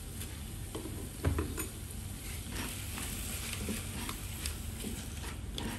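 Spice paste sizzling as it fries in a wok while a plastic spatula stirs and scrapes through it, with scattered light clicks against the pan and a louder knock about a second in.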